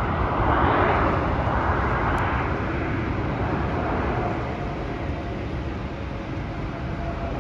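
Jet airliner engine noise heard at a distance: an even roar over a low rumble that swells about a second in and then slowly fades, with a faint steady whine in the second half.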